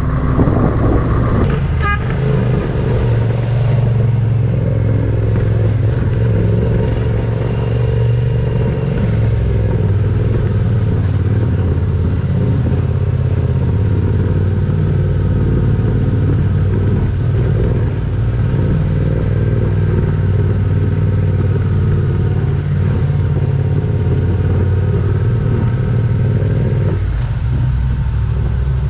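Yamaha Tenere 700's parallel-twin engine running steadily under way, with road and wind noise; its note drops near the end.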